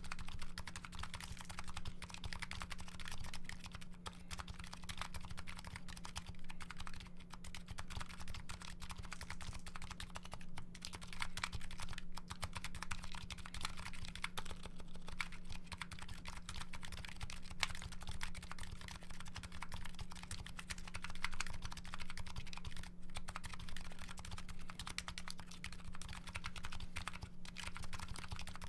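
Continuous typing on a Nuxros Kraze custom keyboard with MetaKeebs MetaPulse electro-capacitive switches: a dense, irregular run of keystroke clicks, over a steady low hum.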